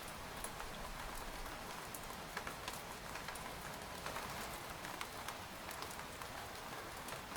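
Rain falling steadily on a tent: an even hiss with many scattered sharp ticks of single drops hitting the fabric.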